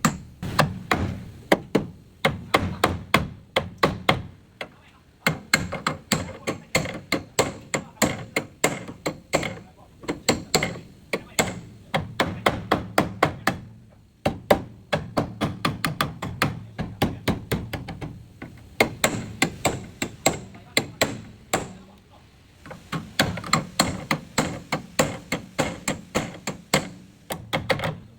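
Hand hammer striking the car's body metal, about three to four blows a second in runs of several seconds with short breaks between them.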